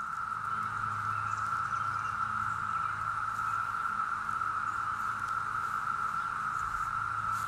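Chorus of many periodical cicadas: a steady, unbroken drone held at one pitch.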